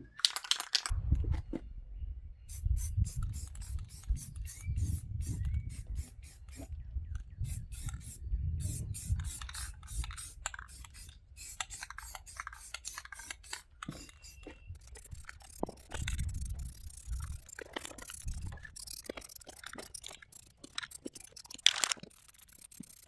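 Aerosol can of primer spraying in many short hissing bursts onto an aluminum truck wheel, over a low rumble.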